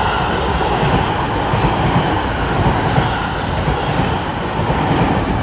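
JR East E653 series electric multiple unit passing through a station without stopping: a steady, loud rolling noise of its cars going by, with a repeated low clatter of the wheels on the rails.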